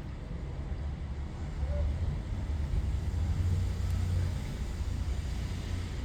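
Low rumble that swells about two seconds in and eases off again near the end.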